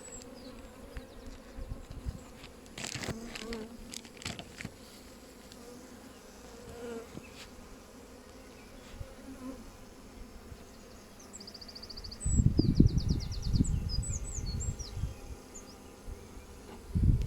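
Honeybees buzzing around an open hive, a steady hum. A small bird sings a short rapid trill and a few chirps midway, and loud low rumbles on the microphone come in from about two thirds through and again near the end.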